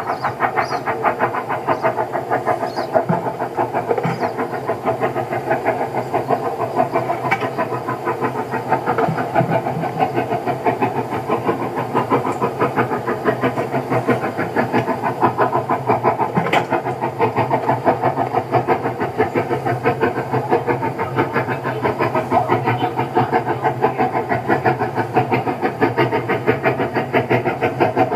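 An engine or motor running steadily, with a fast, even pulse and no change in speed.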